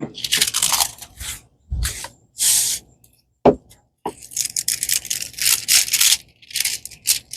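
Rustling and crinkling of a diamond painting canvas and its plastic cover as it is handled and smoothed, in uneven bursts, with a sharp tap about three and a half seconds in.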